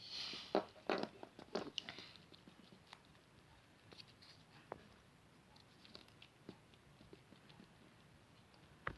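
A Kinder Surprise egg being opened by hand: a burst of crinkling and cracking in the first two seconds, then scattered light clicks.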